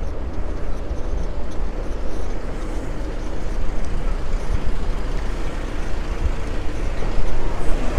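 Steady outdoor background noise with a heavy low rumble, like street traffic.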